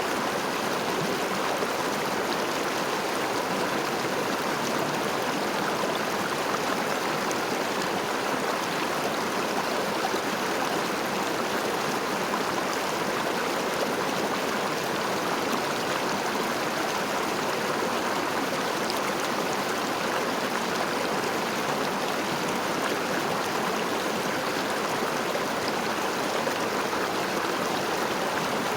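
River water flowing steadily, an even rushing with a light gurgle.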